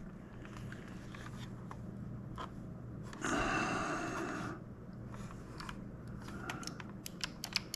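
Plastic parts of a joystick housing being handled and pried apart: scattered small clicks and knocks, a longer scraping rustle about three seconds in, and a quick run of sharp clicks near the end, over a steady low hum.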